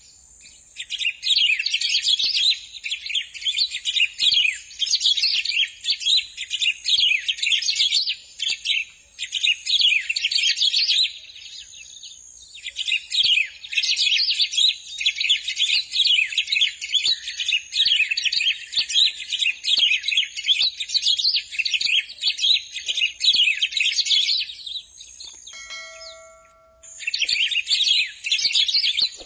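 A songbird singing a long, rapid twittering warble in phrases many seconds long, broken by short pauses. Near the end a few low, steady, bell-like whistled notes sound between the phrases.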